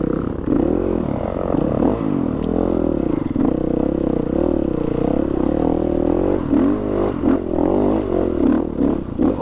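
KTM motocross bike engine revving up and down with the throttle as it is ridden over rough, rutted ground, with several clattering knocks from the bike along the way.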